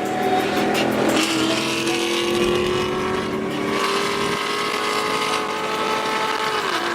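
Car engine pulling hard under acceleration, its pitch climbing steadily for several seconds, then dropping suddenly at a gear change near the end.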